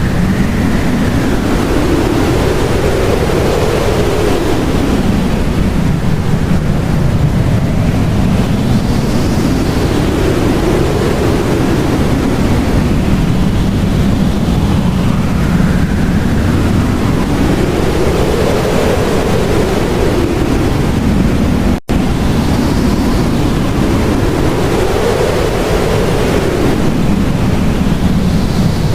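Blizzard wind blowing hard and steadily, with a howl that swells and fades in pitch every few seconds. The sound cuts out for an instant about three-quarters of the way through.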